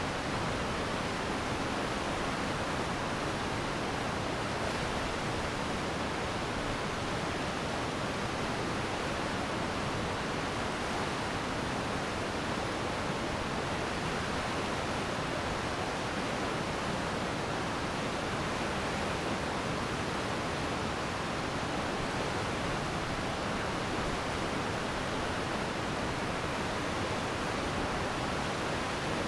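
Glacier meltwater stream flowing steadily: a constant, even wash of water noise with no breaks or changes.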